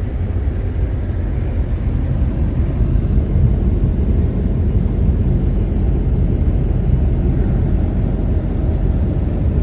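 Converted Ford ambulance camper driving, with a steady low rumble of engine and road noise.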